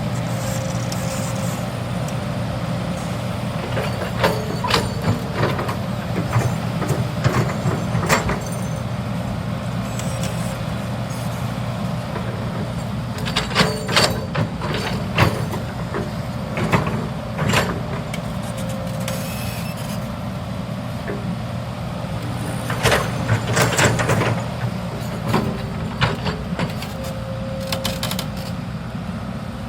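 Hydraulic excavator (CAT 320 GC) with its diesel engine running steadily. Sharp knocks and clanks come in several clusters over it, the sound of the machine working.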